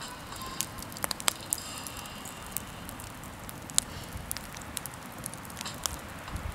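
Small campfire crackling, with irregular sharp pops from the burning wood.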